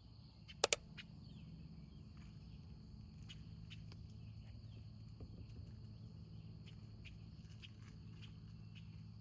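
Quiet outdoor ambience: a steady high-pitched buzz, faint scattered chirps and ticks, and a low hum, with two sharp clicks close together about a second in.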